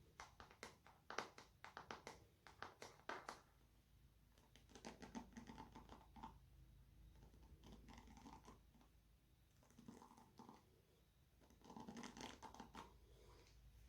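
Hair being brushed and handled: a quick run of short scratchy strokes for the first three seconds or so, then four slower swishing passes.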